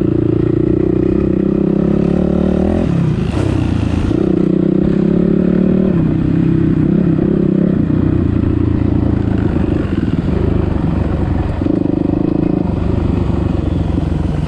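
Dirt bike engine running under load on a trail. Its pitch steps up and down every few seconds as the throttle and gears change.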